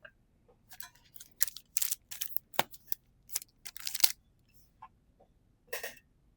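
Pokémon trading cards and pack wrappers handled by hand: a quick run of short rustles and snaps as cards are slid and flipped, then one more a couple of seconds later.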